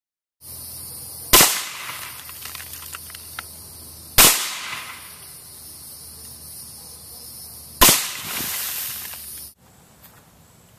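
Three suppressed rifle shots from a Stag Arms 5.56 AR fitted with a Surefire FA556-212 suppressor, fired slowly about three seconds apart. Each shot is a sharp crack followed by about a second of echo.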